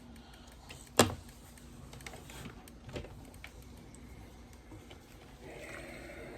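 Handling noises while working with quilt pieces: one sharp knock about a second in, a lighter tap around three seconds, and faint rustling.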